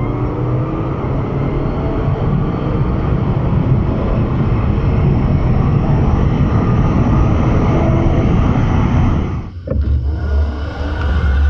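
Loud car engine and road noise. About nine and a half seconds in it cuts out abruptly, then gives way to a steadier low hum.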